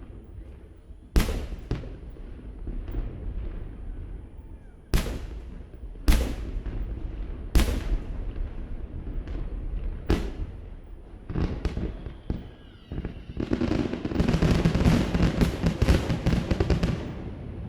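Fireworks shells bursting from across the bay: single booms a second or a few seconds apart, then about thirteen seconds in a dense rapid barrage of bangs lasting three or four seconds that stops near the end.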